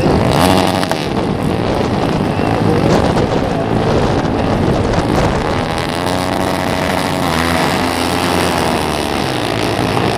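A pack of single-cylinder flat-track racing motorcycles running together, several engines overlapping with pitches rising and falling as they rev and shift.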